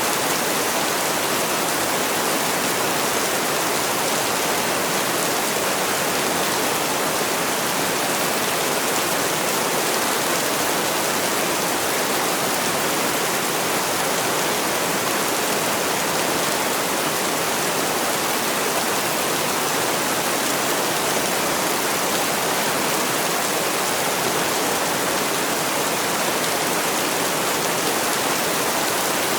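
Heavy rain falling, a dense, steady hiss with no separate drops standing out and no change in strength.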